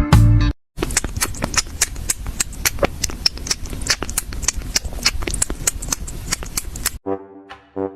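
A run of many quick, irregular clicks and knocks over a steady background noise, stopping abruptly about seven seconds in.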